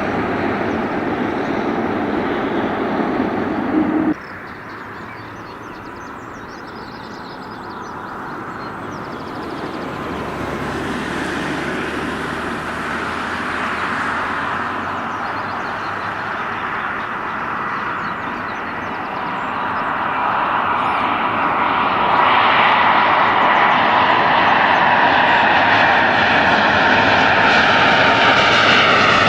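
Jet airliner engines growing steadily louder over about twenty seconds as the plane approaches and passes close by, a broad rushing noise with a steady whine running through it. About four seconds in, the noise of an earlier aircraft cuts off suddenly.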